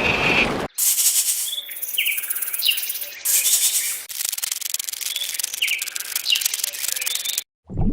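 Small birds giving short, repeated chirps over a steady, high-pitched hiss of insects. The clip starts and stops abruptly with edits.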